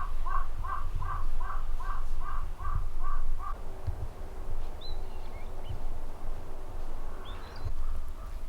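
A crow cawing: a quick run of about ten caws, roughly three a second, stopping about three and a half seconds in. Two faint, high chirps follow later.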